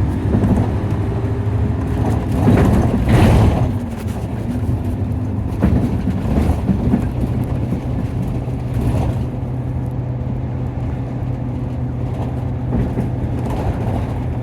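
Interior sound of a Nissan Diesel KC-UA460LSN city bus on the move: its diesel engine runs with a steady low drone, with a short gliding whine near the start and a spell of louder rattling and road noise about two to four seconds in.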